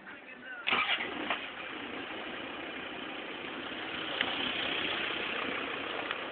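Land Rover Discovery engine starting about a second in, turning over briefly and catching, then settling into a steady idle.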